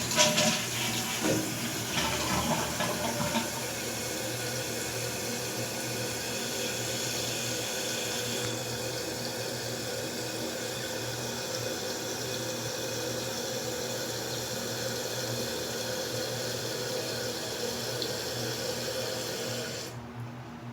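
A 2017 Gerber Maxwell toilet flushing, then its tank refilling with a steady rush of water. The fill stops abruptly near the end as the valve shuts off.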